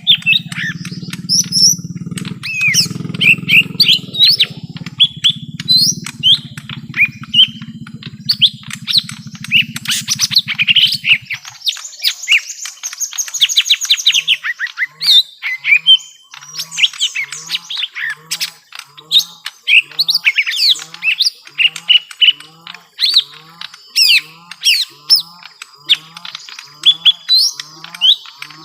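Young lesser green leafbirds (cucak ijo mini) fighting: a dense, rapid stream of sharp chirps and squawks, with several calls overlapping. A low hum runs under the first part and stops about eleven seconds in. After that a low short pulse repeats about every 0.7 seconds.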